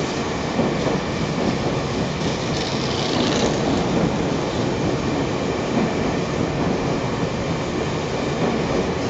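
Tobu 50000-series electric train pulling out of the station, its wheels running on the rails in a steady rumble, with a brief rise in high hiss about two to three seconds in.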